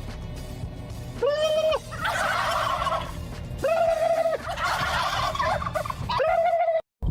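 An animal calling: three drawn-out calls, each steady in pitch after a quick rise, about two and a half seconds apart, with rapid rattling sounds between them.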